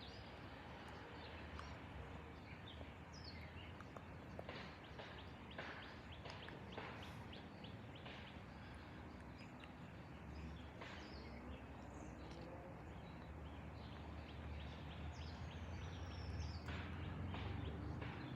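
Faint outdoor background of scattered bird chirps over a low steady rumble, which grows somewhat louder toward the end.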